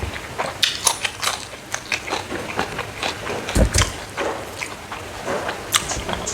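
Close-miked biting and chewing of dried smoked frog: a run of sharp, irregular crunches and crackles, with a dull low thump about halfway.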